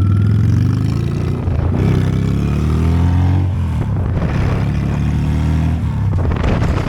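Honda Steed V-twin motorcycle engine accelerating through the gears. Its pitch rises, drops at a shift about two seconds in, rises again and drops at a second shift near four seconds, then runs more steadily.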